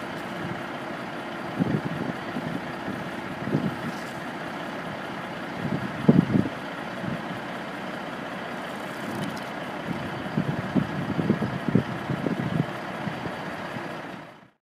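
Cat 3406 diesel engine of a 1980 Kenworth W900 dump truck idling steadily, with irregular gusts of wind buffeting the microphone. The sound fades out just before the end.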